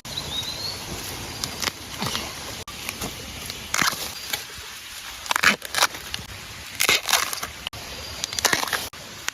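Irregular crackling and snapping of dry stalks and leaves in bamboo undergrowth, about a dozen sharp cracks spread unevenly through the clip, with a faint short chirp near the start.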